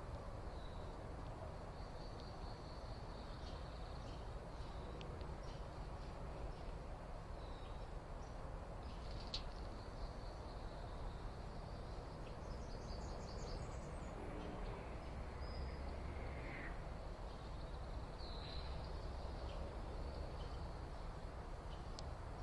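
Faint, scattered short bird chirps over a steady low background hiss.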